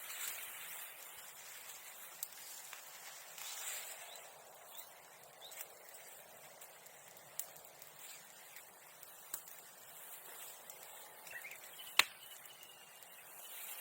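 Small bonfire of newspaper and bamboo grass burning weakly, with faint crackling and a few scattered sharp snaps, one much louder snap about twelve seconds in.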